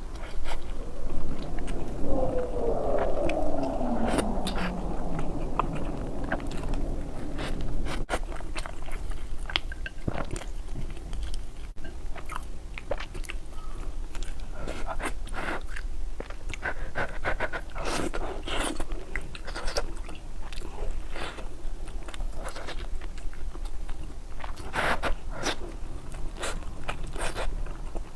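Close-miked person chewing and crunching food, with many sharp, irregular crunches and bites. A sound falling in pitch comes about two seconds in.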